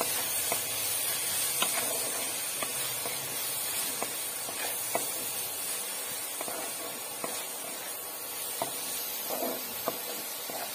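Onions, tomatoes and ground spices sizzling in hot oil and butter in a kadai, while a wooden spatula stirs them, scraping and knocking against the pan about once a second.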